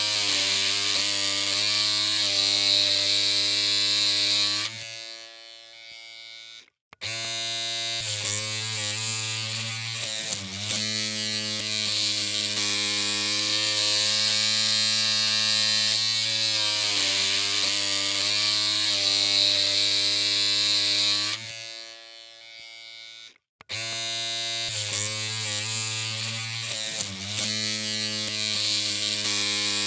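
Electric hair clippers humming steadily with a buzzing, evenly pitched tone. The hum fades and stops twice, about 5 and 21 seconds in, then starts again within a couple of seconds.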